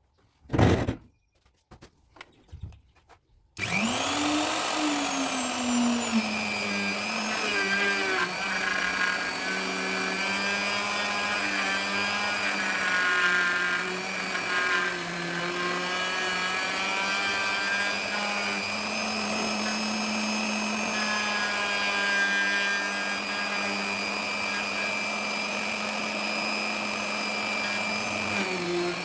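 A few knocks, then an electric wood router starts about three and a half seconds in with a rising whine and runs steadily, its pitch dipping at times under load as it cuts the phone pockets into teak.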